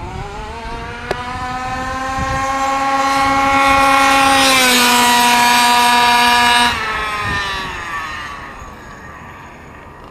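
HPI Baja 5B RC buggy's small two-stroke gas engine at full throttle on a speed run: it rises in pitch as it accelerates, holds a loud, high, steady buzz for a few seconds, then cuts off suddenly about two-thirds of the way in, with the pitch sliding down as it coasts away.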